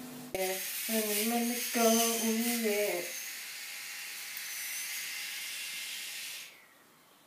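A voice singing a few short held notes that waver in pitch, over a steady hiss that cuts off suddenly near the end.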